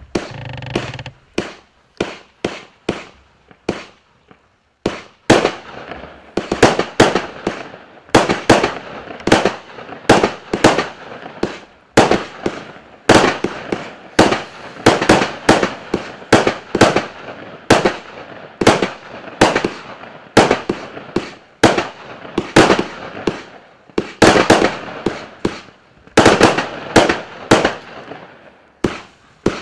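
Klasek C14025XFS fireworks cake firing a rapid string of sharp bangs. The shots are spaced out at first and come faster, about two a second, from about five seconds in, with a continuous hiss filling the gaps.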